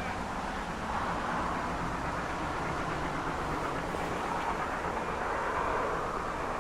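A train running, a steady, even noise with no distinct beats or pauses.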